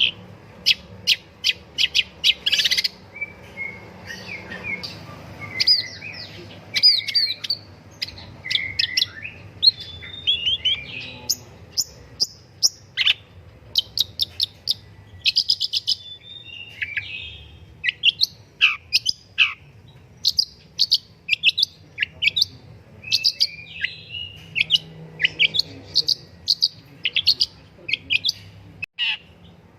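Long-tailed shrike singing a continuous, varied song of rapid strings of short sharp chirps and trills, broken by a few steep falling whistles.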